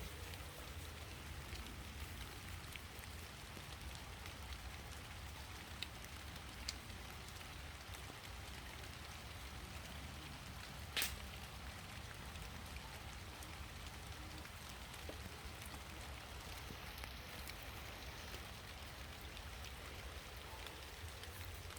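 Steady rain falling, with scattered louder drop hits; the sharpest comes about halfway through.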